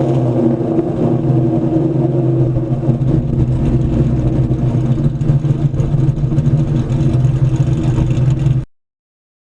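Cammed Ford 4.6-litre two-valve V8 with long tube headers and SLP LoudMouth exhaust running at a steady, choppy low speed with a deep exhaust note. The sound cuts off abruptly near the end.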